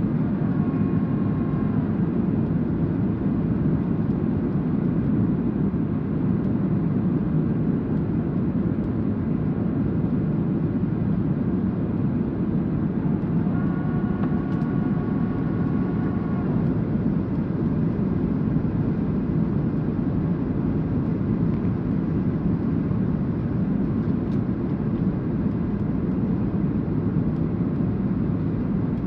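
Steady engine and airflow noise of a Boeing 737-800 in flight, heard from inside the cabin on approach. A faint higher whine rises over it briefly near the start and again about halfway through.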